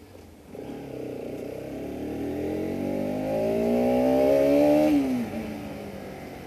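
Bajaj Pulsar RS 200's single-cylinder engine through its stock exhaust, revving up steadily and growing louder under acceleration for about four seconds, then the revs fall sharply about five seconds in and it runs on steadily.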